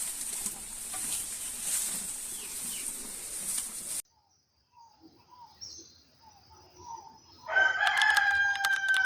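A rooster crowing: one long, loud crow near the end, after a few faint short calls. The first four seconds hold a steady high hiss that cuts off suddenly.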